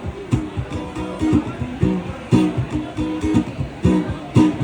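Guitar strummed in a steady rhythm, about two strums a second, carrying an instrumental passage of a song between sung lines.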